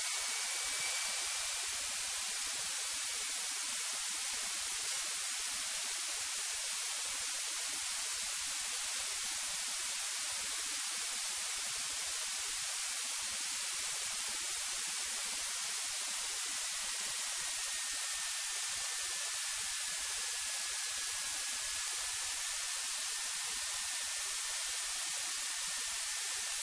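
Steady electronic hiss from a cockpit intercom and radio audio feed, with a faint high whine that drifts slightly lower in pitch about two-thirds of the way through. No engine or propeller noise comes through.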